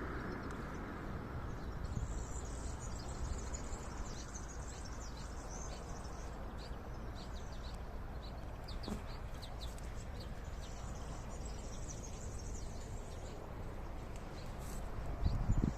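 Outdoor ambience: a steady low background noise with many short, high chirps of small birds scattered throughout.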